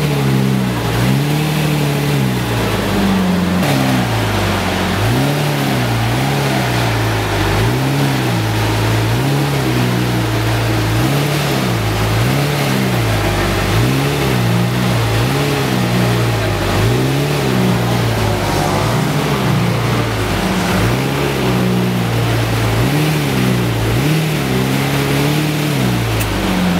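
Lamborghini engine revved over and over, its pitch rising and falling about every one and a half to two seconds.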